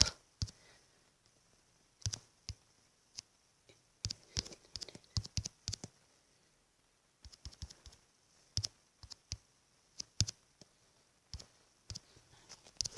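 Light, irregular clicks and taps of typing on a smartphone, in quick clusters with short pauses.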